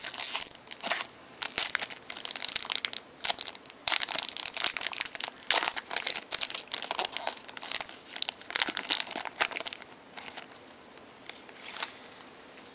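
Trading-card packaging crinkling and rustling as cards are handled, in irregular bursts that thin out after about ten seconds.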